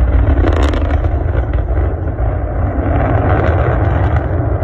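Rocket launch rumble: a loud, steady deep roar with crackling on top, easing slightly near the end.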